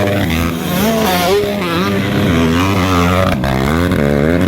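Several motocross motorcycle engines revving together, their pitch rising and falling as the bikes accelerate and shift.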